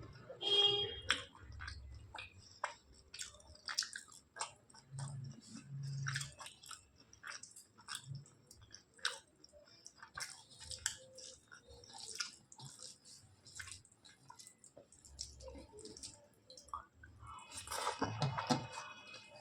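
Close-miked chewing and mouth smacks of a person eating rice, mixed vegetable sabji and chicken kosha, with many short wet clicks in quick succession. A brief louder pitched sound comes near the end.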